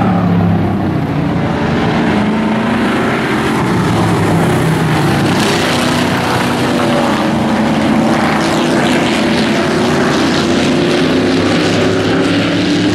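Dirt-track race truck engines running at speed around the track, a loud, steady drone with several engine notes sliding up and down as the trucks accelerate and lift.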